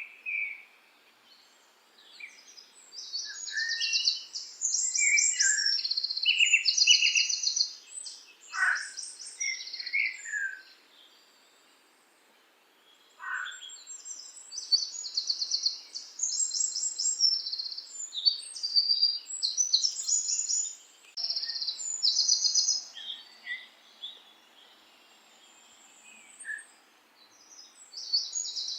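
Songbirds singing in a chorus of rapid high trills and chirps, with a couple of quick falling whistles and short lulls between phrases.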